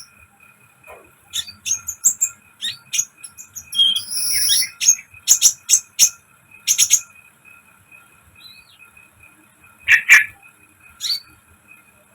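Konin bird calling in a lure recording: irregular short, sharp chirps and clicks, bunched in a quick flurry in the middle, with a louder call near the end. A faint steady high whine runs underneath.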